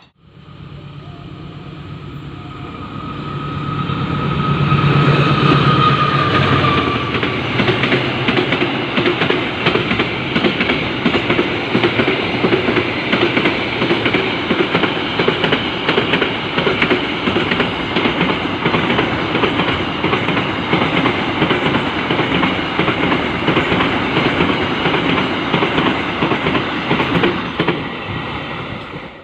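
A train passing close by. The locomotive's engine hum builds over the first few seconds, then the carriages' wheels keep up a steady rhythmic clatter over the rail joints.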